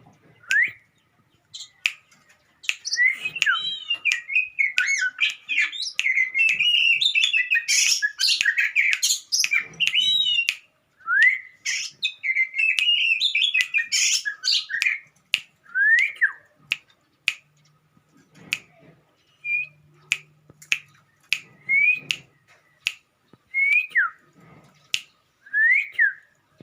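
Oriental magpie-robin singing: a long run of rapid, varied warbling, then single falling whistled notes every couple of seconds, with sharp clicks in between. The song is that of a bird in breeding heat.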